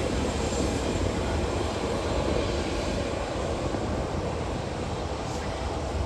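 Jet airliner engine noise, a steady rushing roar that slowly fades.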